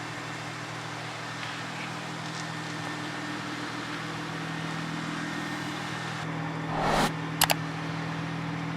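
Car engine idling steadily, with a short rush of noise about seven seconds in and two quick sharp clicks just after.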